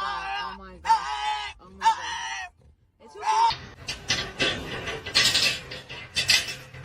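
An animal calling four times in quick succession, each call a short pitched cry of about half a second, then one more brief cry after a pause. The second half is a run of scattered clicks and rustling.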